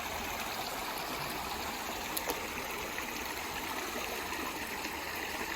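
Mountain stream water running steadily over rocks, with a couple of faint clicks about two seconds in.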